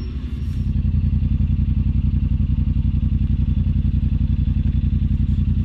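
Side-by-side UTV engine idling steadily, with an even, rapid exhaust pulse.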